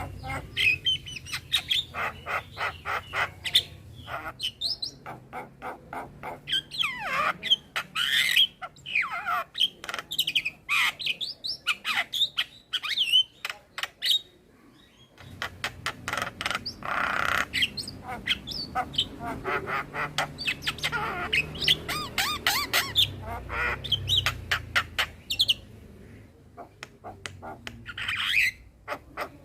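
Male Javan myna (jalak kebo) singing a varied, busy song of harsh squawks, whistled chirps and rapid clicking runs. It breaks off for about a second halfway through, then goes on.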